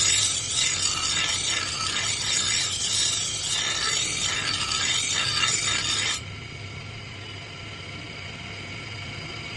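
Steady rasping scrape of metal being worked by hand on a steel blade, in repeated strokes. It stops abruptly about six seconds in, leaving a quieter steady hum.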